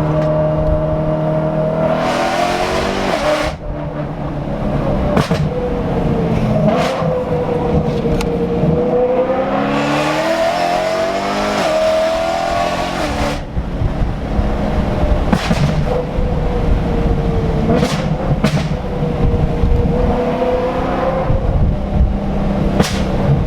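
Straight-piped BMW E90 M3's S65 V8 running loud under throttle, its pitch rising and falling with the revs. The note breaks off suddenly twice, and several sharp cracks cut through it.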